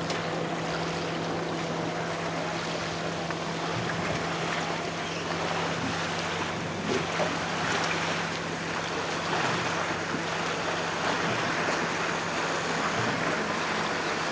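Boat motor running steadily with a constant low hum, under a steady wash of wind and water noise.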